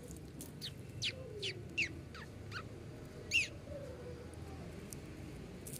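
A bird calling: a quick run of about seven short, high notes, each falling in pitch, then a single louder falling call about three seconds in.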